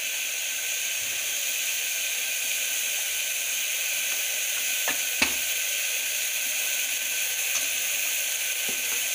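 Onion-tomato masala paste sizzling steadily in hot oil in an aluminium pressure cooker, with turmeric powder just added on top. Two light clicks sound about five seconds in.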